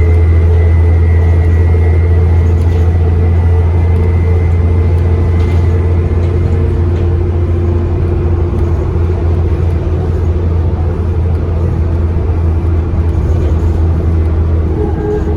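Diesel bus engine droning heavily from inside the passenger saloon while under way, with a high turbocharger whistle that fades away in the first half, and overall level easing slightly.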